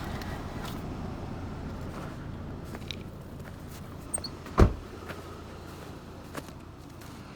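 A pickup truck door is shut with one sharp thump about halfway through, after a few small clicks and handling noises. A low steady rumble runs underneath and slowly fades.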